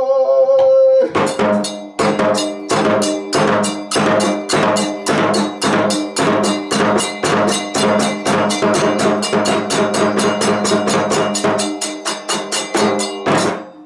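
Kagura festival percussion: rapid, even drum strikes at about four a second with a ringing metallic tone beneath. They come in about a second in, after a held chanted note, and stop just before the end.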